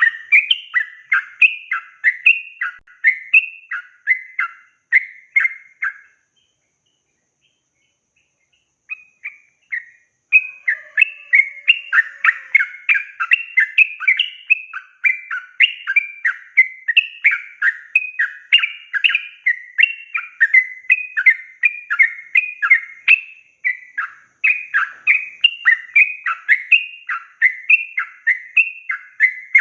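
Yellow-vented bulbul (trucukan) singing a long, fast run of short repeated phrases, several a second. It stops about six seconds in, then takes up the run again a few seconds later.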